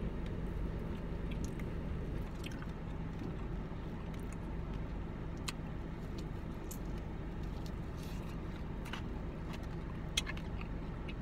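Biting into and chewing crispy fried chicken, with scattered short crunches and mouth clicks, over a steady low hum inside the car's cabin.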